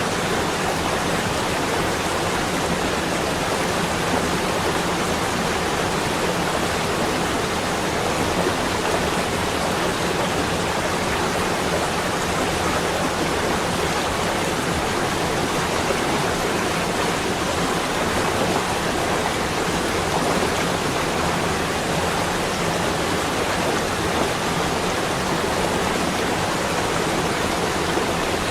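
Steady, even rushing hiss with no breaks or separate sounds, of the kind that falling snow, rain or running water makes.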